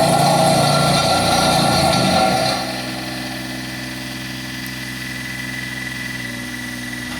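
Diesel engine of a Bomag BW 120 AD-5 tandem roller running. About two and a half seconds in it drops to a quieter, steady idle.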